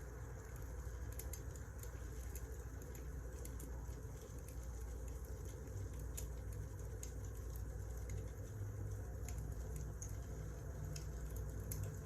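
Wood fire crackling, with irregular small sharp pops and snaps over a steady low rumble.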